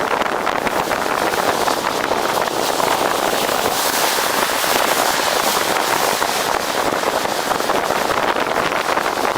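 Steady road and wind noise from a moving vehicle, with a dense crackling texture throughout.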